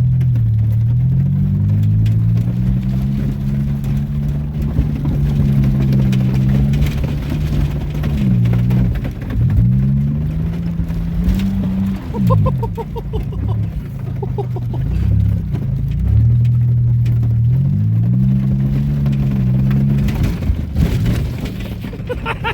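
Car engine, the Buick 3.1 V6, running loud while driven hard, its pitch rising and falling several times as it revs up and eases off, with a few quick up-and-down swoops about halfway through.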